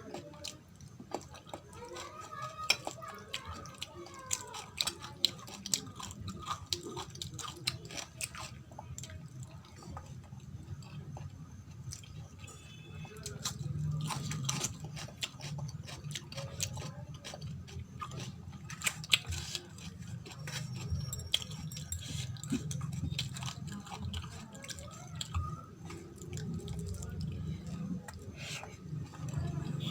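Close-miked chewing of food, with frequent sharp crunchy bites and wet mouth sounds.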